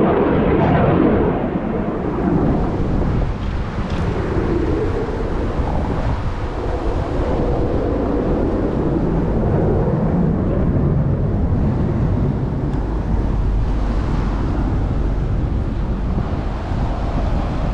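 Steady rumble of Blue Angels F/A-18 Super Hornet jets in flight, mixed with wind buffeting the microphone.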